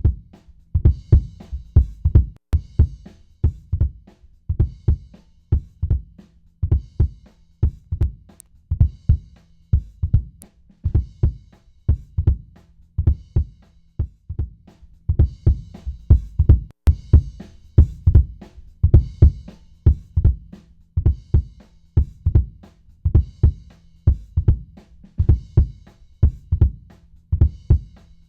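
A recorded drum kit playing a steady repeating beat of kick drum, snare and hi-hat, as program material run through a 500-series tape saturation unit.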